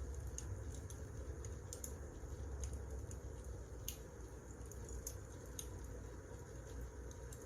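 Wood fire burning in a fireplace: irregular sharp crackles and pops, one or two a second, over a steady low rumble of the flames.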